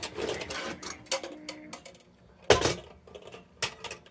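A handful of sharp metallic clicks and knocks from handling the tin lantern and its parts on the workbench, the loudest about two and a half seconds in.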